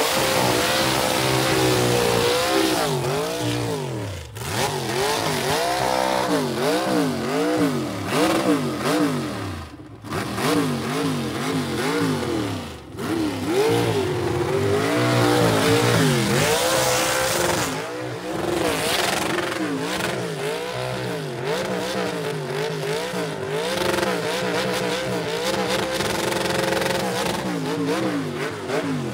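A car's engine revving hard during a burnout, its pitch rising and falling about once a second as the throttle is worked, over a steady hiss of spinning tyres.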